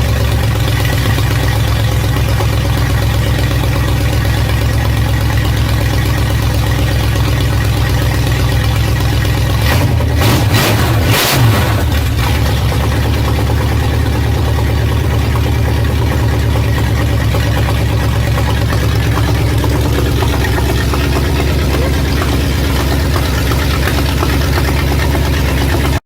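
Ford 8BA flathead V8 running steadily at idle through headers on an engine run stand, with a short burst of louder noise about ten seconds in. The engine cuts off suddenly at the end.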